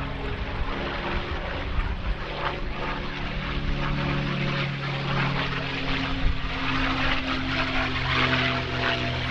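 Propeller-driven WWII fighter in flight, its Rolls-Royce Merlin V12 piston engine giving a steady, deep drone that grows louder in the second half as it comes nearer.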